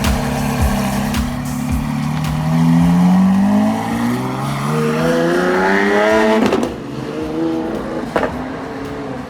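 Car engine accelerating hard, its pitch climbing steadily for about six seconds, then dropping suddenly at an upshift, followed by a lower engine note and a single sharp pop near the end.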